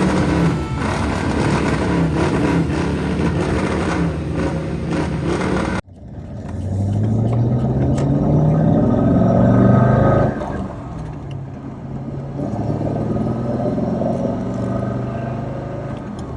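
Car engine accelerating, its pitch rising for about four seconds before dropping back and running on more steadily. It comes in after an abrupt cut from a denser, louder sound about six seconds in.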